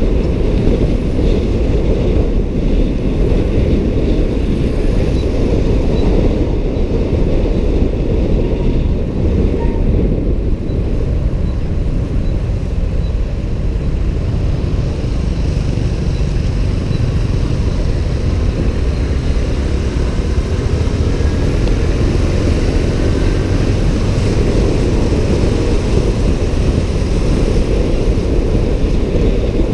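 Steady, loud wind rumble on the microphone from riding a motorbike through traffic, with vehicle noise underneath.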